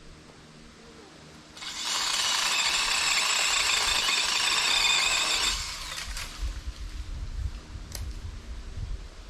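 DeWalt 20V cordless pole saw's electric motor running with a steady high whine, starting about one and a half seconds in and stopping about four seconds later.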